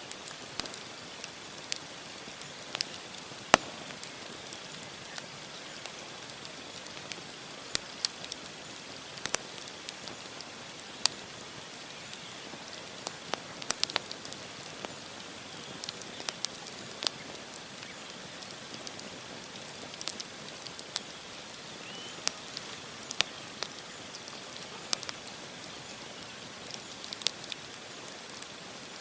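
Wood campfire burning: logs crackling with irregular sharp pops and snaps over a soft steady hiss.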